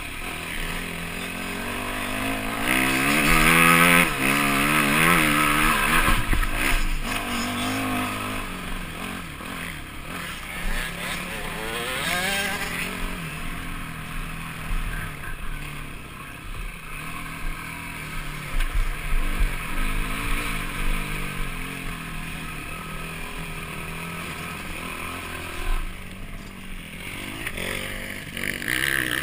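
Motocross bike engine heard from a camera mounted on the bike, revving up and down as the rider accelerates and backs off, loudest with climbing revs in the first several seconds and again about twelve seconds in.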